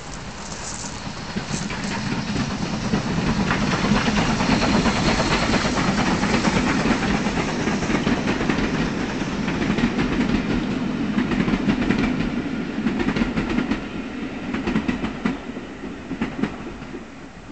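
A train passing: a low rumble with rapid clicking of wheels over the rails. It swells over the first few seconds, holds, then fades away near the end.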